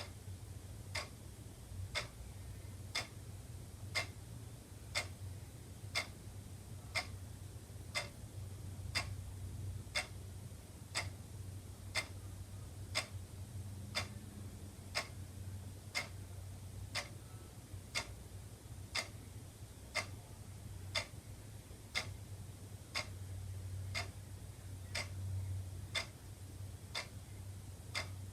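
Wall clock ticking steadily, one tick about every second, over a low steady hum.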